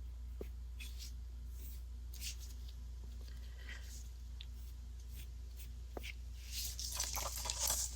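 Paintbrush strokes on gesso-primed mixed media paper: faint soft brushing and scratching over a steady low hum, getting louder and busier near the end.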